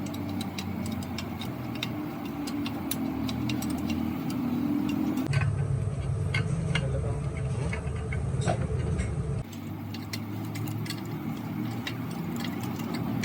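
Irregular light clicks and taps from work on a car engine, over a steady low hum. About five seconds in the hum grows heavier and duller, and it switches back about four seconds later.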